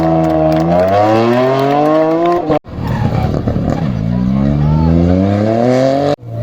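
Rally car engines under hard acceleration: two cut-together passes, each a loud engine note climbing steadily in pitch through a gear. The second pass opens with a rough hiss before its engine note rises.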